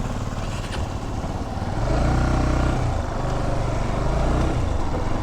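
Motorcycle engine running as the bike pulls away. Its note grows louder and steadier about two seconds in.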